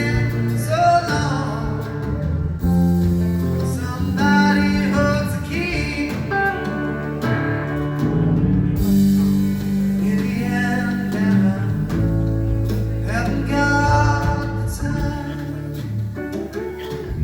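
Live rock band playing loudly: guitar lines over sustained bass notes, with singing.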